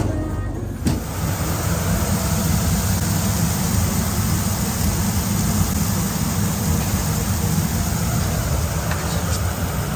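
A steady, loud engine rumble with a broad noise haze above it, typical of a motor vehicle running. It takes over abruptly about a second in, after a short tail of music.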